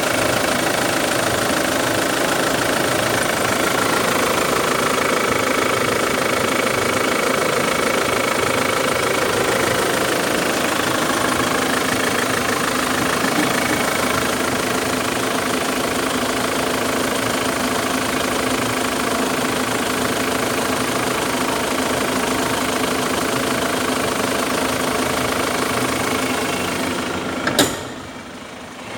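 Holden Captiva diesel engine idling steadily. Near the end there is a sharp click and the sound drops away much quieter.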